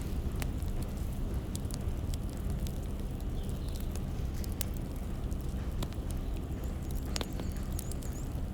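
Wood fire burning: a steady low rumble of flames with scattered sharp crackles and pops from the burning firewood. A faint high wavering whistle comes in near the end.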